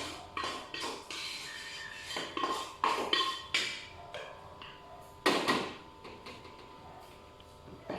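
A spatula or spoon scraping and knocking against a metal pan as whole spices are stirred while dry-roasting, a run of short clatters with one louder clang about five seconds in.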